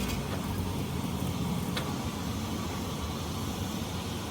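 Steady low mechanical running noise, like a motor or machine, with a faint click about two seconds in.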